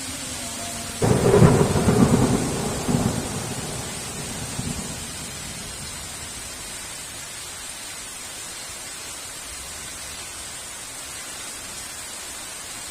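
A clap of thunder about a second in: a sudden crack that rolls on in a rumble with a few further cracks and dies away over about four seconds. Steady heavy rain hisses underneath throughout.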